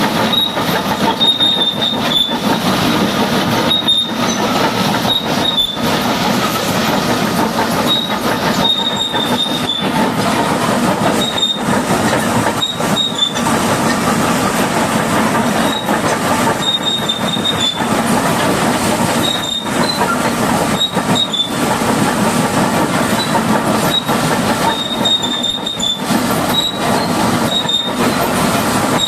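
High-pressure washer jet spraying mud off a bulldozer: a loud, steady rushing noise with a faint high whine, broken by brief gaps every second or two.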